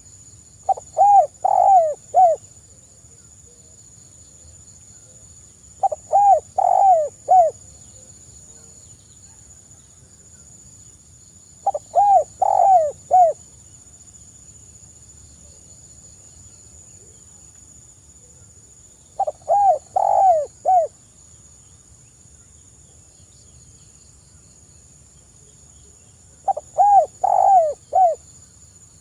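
Spotted dove (tekukur) cooing: five phrases of about four short, arched notes each, repeated roughly every six seconds, over a steady faint high whine.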